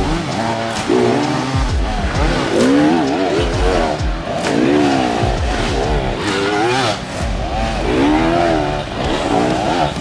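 Dirt bike engines revving hard, pitch rising and falling over and over as the riders work the throttle.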